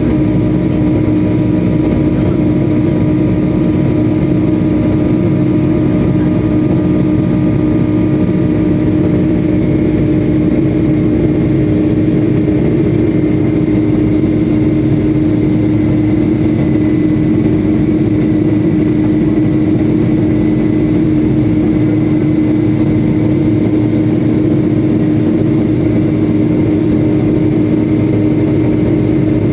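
Cabin noise inside a Boeing 757-200 airliner: steady jet engine drone and airflow noise, with a strong low hum and several fainter steady tones.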